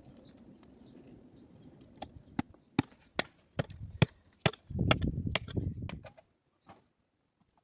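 Hammer blows on stone: a run of about ten sharp strikes starting about two seconds in, with a low rumbling noise under the last few, then a sudden cut to silence.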